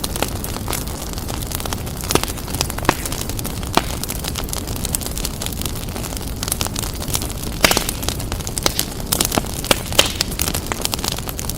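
Fireplace fire crackling, with frequent sharp, irregular pops and snaps over a steady low rumble of the flames, the pops coming thicker in the second half.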